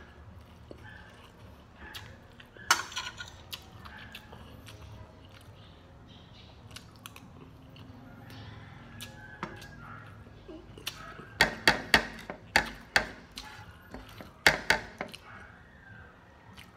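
Close-up eating sounds: chewing, then a run of about a dozen sharp crunchy clicks in the middle to later part as fried food is bitten and chewed.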